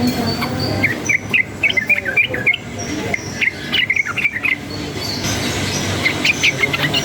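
Sooty-headed bulbul (trucukan) singing in bursts of quick, chirpy notes, several short phrases with brief pauses between them.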